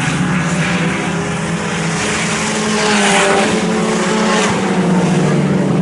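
IMCA Sport Compact race cars running in a pack around a dirt oval, several engines droning together at steady speed and swelling a little as cars pass.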